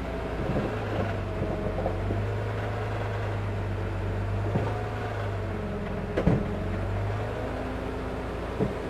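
Heavy-equipment diesel engine running steadily, with a few sharp knocks now and then; the loudest knock comes about six seconds in.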